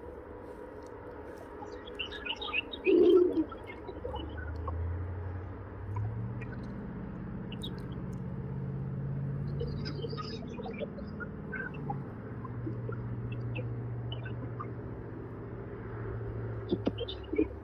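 Small birds chirping in short scattered calls, with a brief louder low sound about three seconds in. From about four seconds a low, steady drone runs under the chirps, shifting pitch twice before fading near the end.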